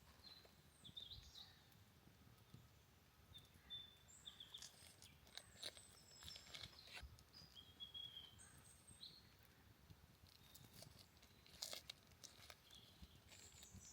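Faint forest ambience: scattered short, high bird chirps with a few soft crunching clicks, a cluster in the middle and another near the end.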